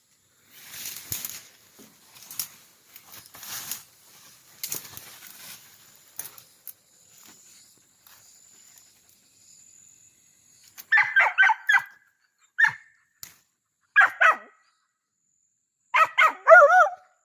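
Dog barking at a snake up in a tree: a quick run of about five barks, then two single barks, and a wavering, whining bark near the end. The first few seconds hold only rustling.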